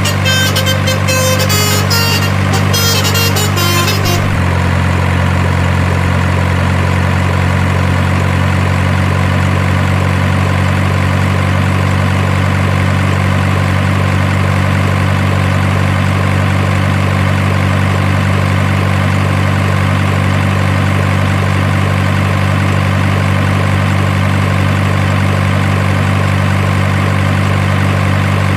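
Steady, unchanging diesel-truck engine idle, most likely the RC truck's engine sound effect rather than a real engine. For about the first four seconds a patterned higher sound, tones and clicks, plays over it and then stops.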